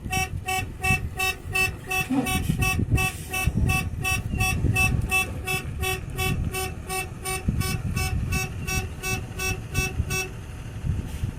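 A horn-like electronic beep repeating rapidly and evenly, about three to four beeps a second, over a low rumble; the beeping stops about ten seconds in.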